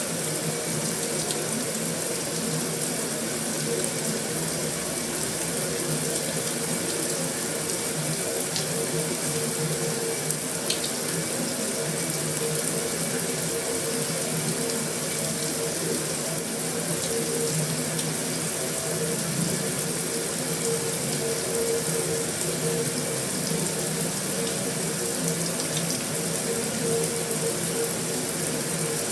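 Heavy rain falling steadily on a metal roof: a dense, even hiss with a few faint ticks scattered through it.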